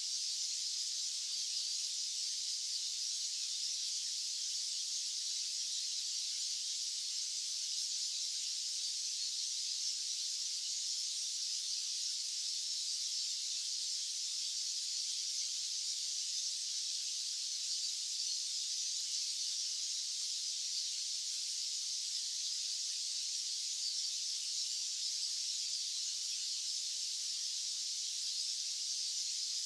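Steady, unchanging high-pitched white-noise hiss with no low rumble beneath it.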